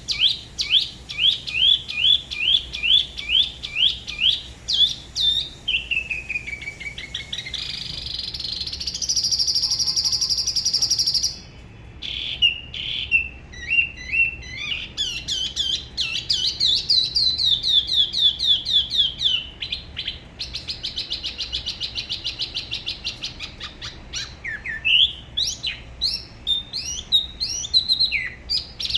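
Spot-throated babbler singing a long run of quick, falling whistled notes, about three a second. About eight seconds in, a sustained buzzy trill takes over for about three seconds, and varied, shifting phrases follow.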